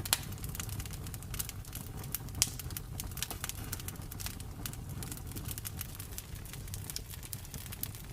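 Campfire crackling: a steady stream of irregular snaps and ticks over a low rumble of flame, with two sharper pops, one right at the start and one about two and a half seconds in.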